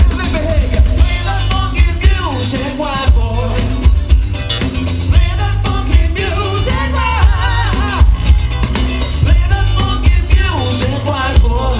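Live band playing a rock song with a lead singer over electric bass and drums, with a heavy, steady beat.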